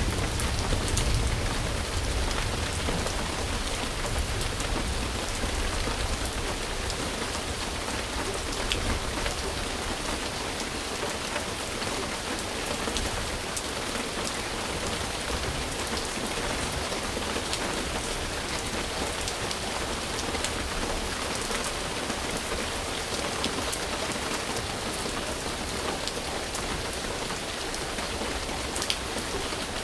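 Rain falling steadily on a surface: an even hiss with scattered drop ticks. A low rumble under it fades away over the first few seconds.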